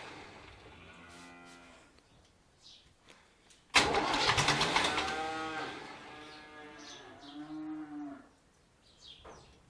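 David Brown 1490 turbo diesel tractor cranked on its starter motor in a sudden burst about four seconds in, turning over without catching and dying away over a few seconds: a failed start attempt. Pitched tones that bend up and down come and go around it.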